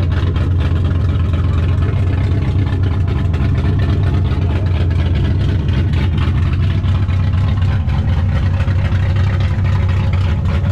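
A car engine idling steadily: a low, even drone that holds one pitch without revving.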